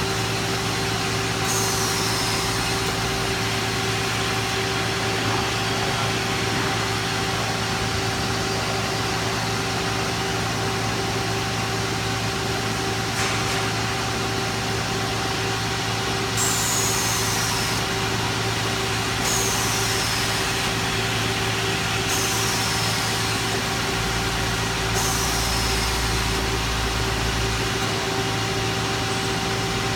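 Yeonil CNC slotting machine running under power: a steady motor hum with constant tones. A brief high falling hiss comes twice near the start and then repeats about every three seconds in the second half.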